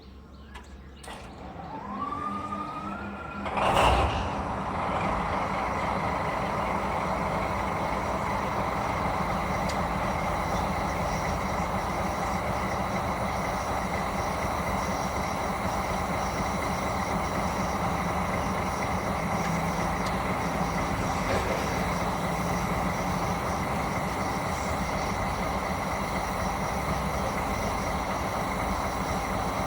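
JNR Class DD51 diesel-hydraulic locomotive's V12 diesel engine starting: a rising whine as it is cranked, a loud burst as it catches about four seconds in, then steady idling.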